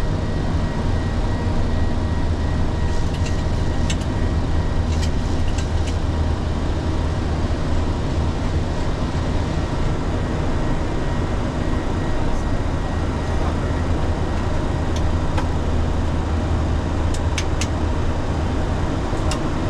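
Steady drone of a Boeing 737 flight deck in descent: rushing airflow and engine noise over a strong low hum, with a few faint clicks scattered through it.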